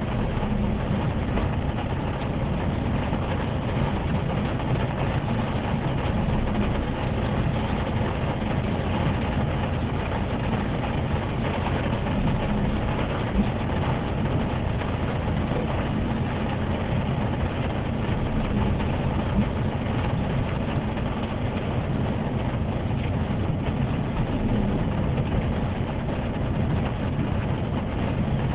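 Car engine idling steadily, heard from inside the cabin. There is a brief knock a little before halfway and another about two-thirds of the way through.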